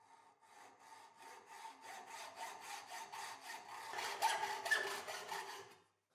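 Hacksaw strokes cutting through a steel rod, about four a second, over a faint ringing of the metal. The sawing grows louder towards the end and stops just before it.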